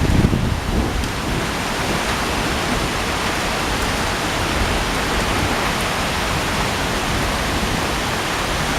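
Heavy rain pouring down in a steady, even roar during a storm, with a low rumble in the first second.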